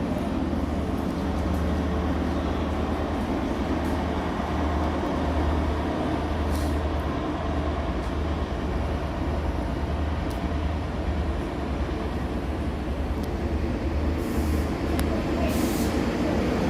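Passenger train running, heard from on board: a steady low rumble with wheel and rail noise, broken by short hissing bursts about seven seconds in and twice near the end.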